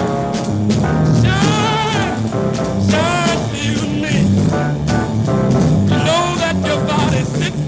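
Jazz combo recording in a swing feel: a stepping bass line, drum and cymbal hits, and a melody line with wide vibrato over them.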